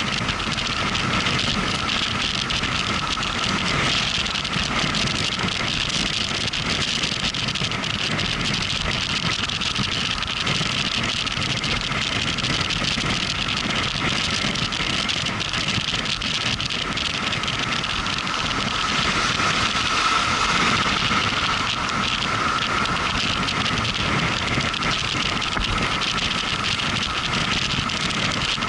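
Motorcycle riding at road speed: engine running steadily under a constant rush of wind and road noise, swelling slightly about two-thirds of the way through.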